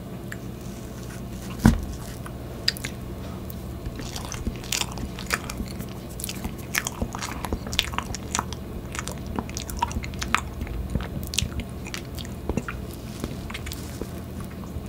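Close-miked eating sounds: chewing of soft tiramisu with many small wet mouth clicks, and a metal fork scraping and tapping in a plastic dessert cup. One sharper knock comes a little under two seconds in.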